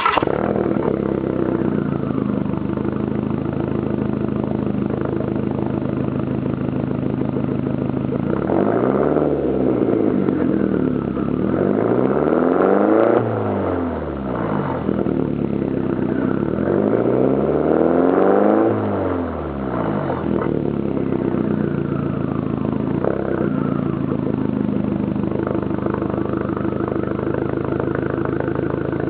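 Volkswagen Jetta 1.8T turbocharged four-cylinder engine, breathing through a 3-inch downpipe and a 2.5-inch catback with no muffler or resonator, flaring loudly just after starting and settling to idle. It is revved three times, each rev rising and falling back, about 9, 13 and 18 seconds in, then idles steadily again.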